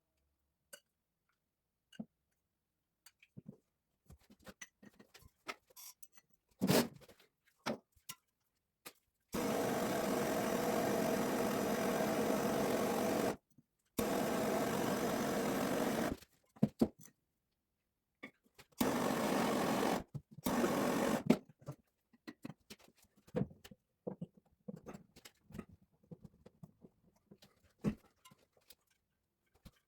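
A small handheld power tool motor runs in four spells: about four seconds, then two seconds, then two shorter ones. Scattered clicks and knocks fall in between.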